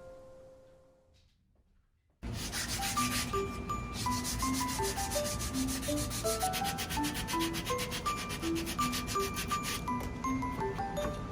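Wood being sanded: a dense, rapid rubbing that starts suddenly about two seconds in, over light background music of bell-like melodic notes.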